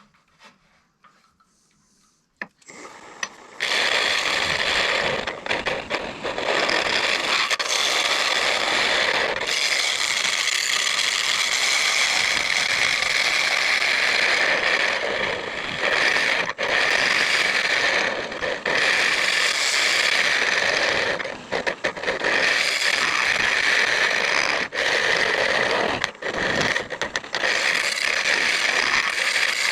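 Near silence at first. From about three seconds in, a carbide hollowing tool cuts into mesquite spinning on a wood lathe: a continuous loud scraping, with brief dips where the tool eases off the wood.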